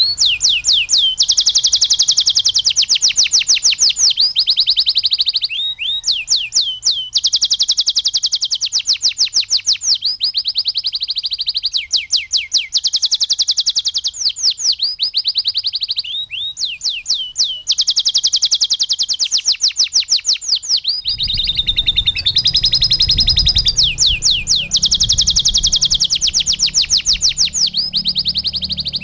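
Domestic canary singing loud, continuous rolling trills: fast runs of repeated notes that change to a new phrase every second or two. About two-thirds of the way in, a low rumble joins underneath.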